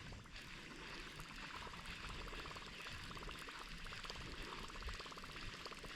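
Faint, steady trickling and rippling of river water, with a fine crackle running through it.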